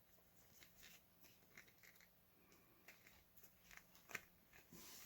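Near silence, with faint scattered clicks and light rustles of a plastic action figure being handled.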